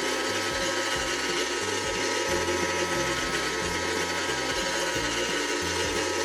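Toy Magical Microwave running its cooking cycle, its motor and gears turning with a steady mechanical ratcheting whir.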